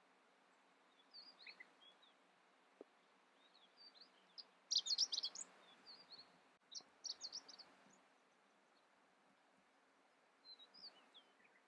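A small songbird singing short bursts of high, rapid chirps, in four or five phrases a couple of seconds apart, the loudest about five seconds in, over a faint steady background hiss.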